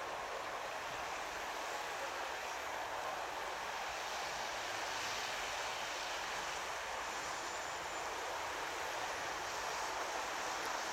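Electric multiple-unit passenger train moving away along the track, giving a steady rushing noise with no distinct clatter or horn.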